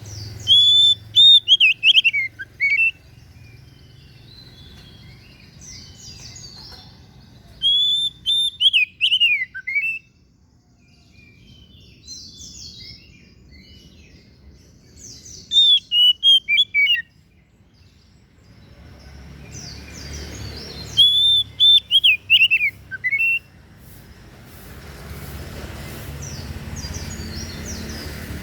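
Oriental magpie-robin (kacer) singing: four loud bursts of quick, swooping whistled phrases, each a couple of seconds long, with pauses of several seconds between them.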